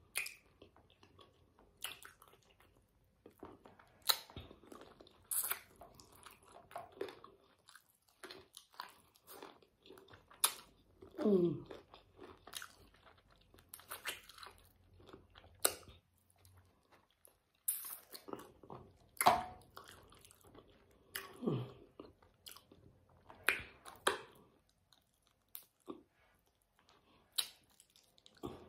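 Close-up eating of spicy sauced chicken feet: irregular wet chewing, sucking and biting, with crunches on the bones and cartilage.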